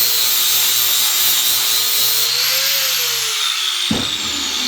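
Angle grinder with a flap disc grinding paint off a steel piece, the motor pitch dipping and recovering under load. Near the end it is let off and spins down with a falling whine, and there is a single knock.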